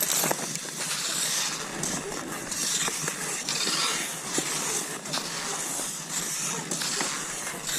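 Cross-country skis gliding over snow in a steady rhythm: a hissing swish about every one to two seconds, with sharp clicks between the strokes.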